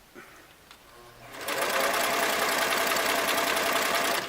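Singer Model 337 sewing machine starting up and sewing a narrow zigzag at speed, a fast even mechanical chatter that stops abruptly near the end. A few faint handling clicks come before it.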